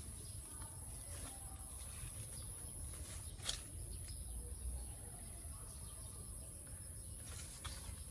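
Quiet garden ambience: a steady high-pitched insect drone over a low rumble, with a single sharp click about three and a half seconds in.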